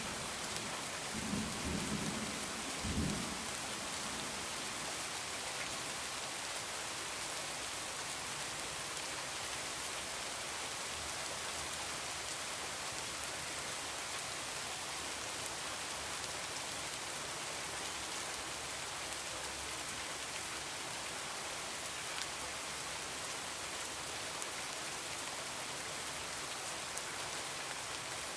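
Heavy rain falling steadily in an even hiss, with a low rumble of thunder that dies away about three seconds in.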